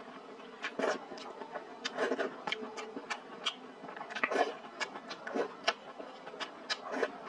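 Close-up eating sounds: wet chewing and lip smacks while eating minced meat and fried egg, as irregular clicks several times a second with a few louder smacks.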